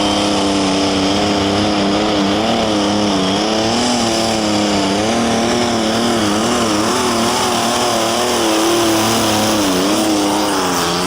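Light Limited Super Stock pulling tractor's turbocharged diesel engine at full power, loud and steady, dragging the sled down the track. Its pitch wavers up and down repeatedly as the revs rise and fall during the run.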